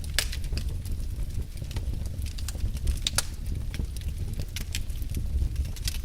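Wood fire burning in a fireplace: a steady low rumble of flames with scattered sharp pops and crackles.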